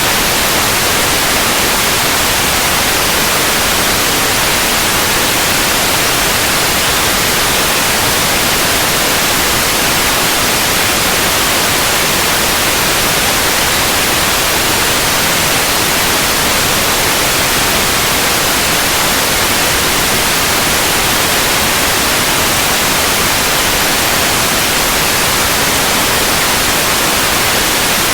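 Continuous white noise: a steady, even hiss with no changes.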